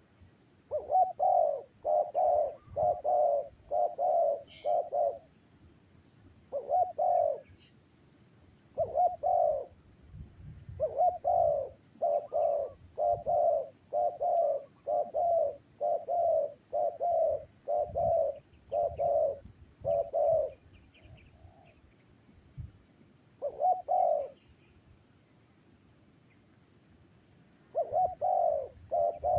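Spotted dove cooing in repeated runs of low, evenly spaced coos, a little under two a second, with pauses of a few seconds between runs.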